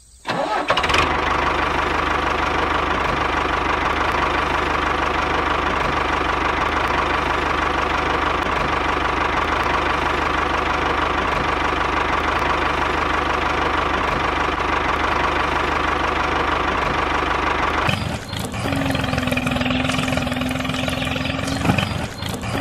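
Small motor of a DIY mini tractor running steadily. About 18 seconds in, it changes abruptly to a different steady running sound with a clear hum.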